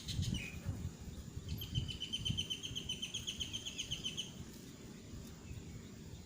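A bird calling a quick run of short, evenly spaced chirps for about three seconds, starting about a second and a half in, over a steady low rumble.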